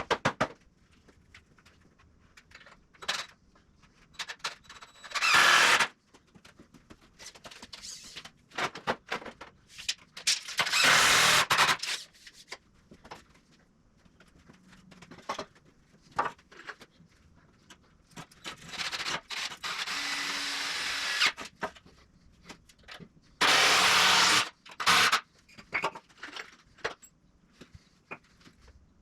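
Power drill driving screws into 2x4 lumber in four short bursts, the longest about three seconds, with clicks and knocks of wood and tools being handled in between.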